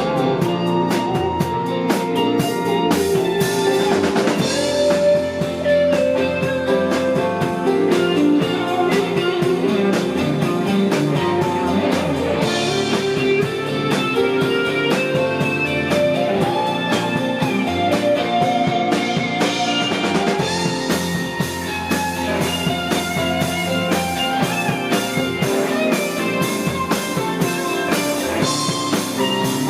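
Rock band playing an instrumental passage: guitar over a steady drum-kit beat, with no singing.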